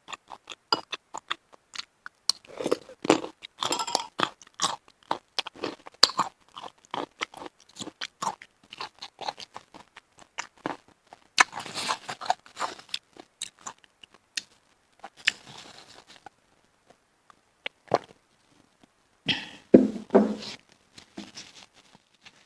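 Close-miked chewing of steamed seafood meat (mountain snail and oyster), a dense run of crisp crunches and wet mouth clicks that thins out in the second half, with a louder burst of chewing near the end.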